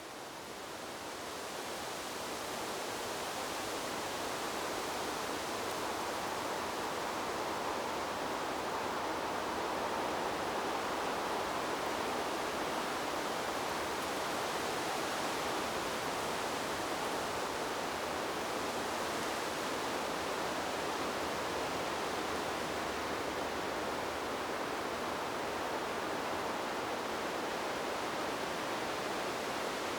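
Wind blowing through trees: a steady, even rushing noise with no distinct gusts or rustles. It swells over the first few seconds, then holds level.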